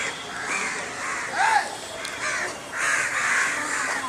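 Crows cawing, several harsh calls in quick succession.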